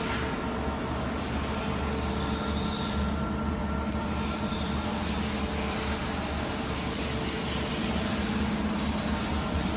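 X-axis feed drive of a Mazak QTN300II CNC lathe running with a steady mechanical whine over a grinding noise: the abnormal noise from worn axis bearings, worst on the motor side.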